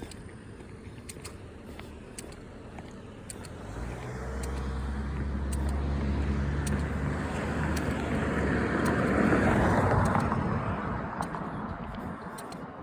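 A car drives past: its low engine hum comes in about four seconds in, and the tyre and road noise swells to a peak around nine to ten seconds, then fades away.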